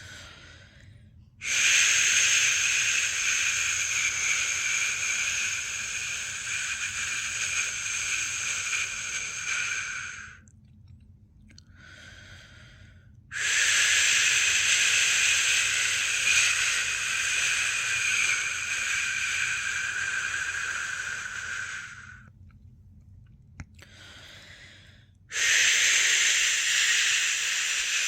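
A person's long, drawn-out 'shhh' shushing, the shush used to soothe a newborn to sleep. There are three long shushes of about nine seconds each, separated by short pauses for breath, with a softer, shorter hiss in the first pause.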